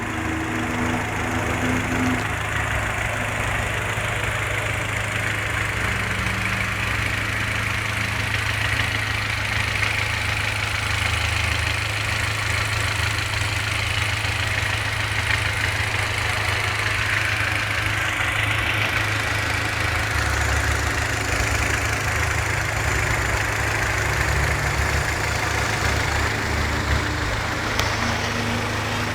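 Honda H22A8 2.2-litre DOHC VTEC four-cylinder engine idling steadily.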